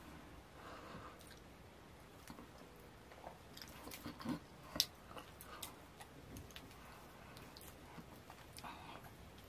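Close-up mouth sounds of eating fufu with slimy ogbono soup by hand: faint wet chewing with scattered sharp mouth clicks and smacks. They are thickest and loudest about four to five seconds in, as a mouthful goes in.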